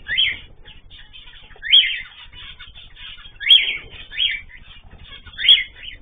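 A bird gives five loud, short, sharp calls, each sweeping up and then back down in pitch, spaced about a second or two apart. Faint, constant twittering of other small birds runs underneath.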